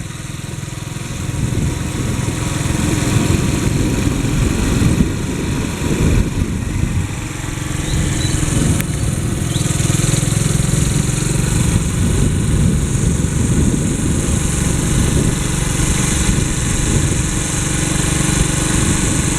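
Motorcycle engine running steadily while being ridden, under a continuous rush of wind and road noise.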